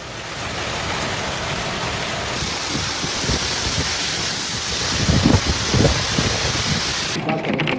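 Heavy thunderstorm rain pouring down, a dense steady hiss, with a couple of louder low rumbles about five seconds in.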